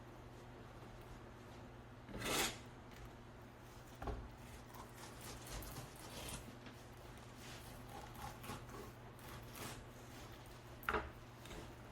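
Faint knife-and-fish handling sounds while a seabass is being filleted: soft scrapes and rubs, a swish about two seconds in, a knock about four seconds in and a short sharp sound near the end, over a steady low hum.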